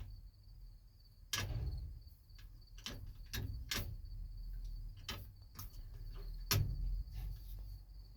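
Manual gear shift lever of a parked dump truck being shoved through its gates, giving an irregular run of clunks and clicks, the heaviest about a second and a half in and again near the end.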